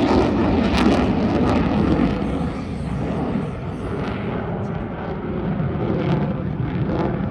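Jet noise from an F-35B Lightning II's single F135 afterburning turbofan as the fighter flies its display: a deep, loud rumble that eases a little a few seconds in and builds again near the end.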